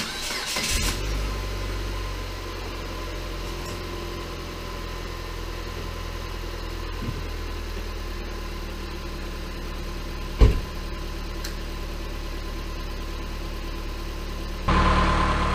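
Car engine just started, louder for about the first second, then settling into a steady idle with the transmission in neutral, its pump pushing automatic transmission fluid out through the cooler-line hoses for a flush. A single sharp knock about ten seconds in.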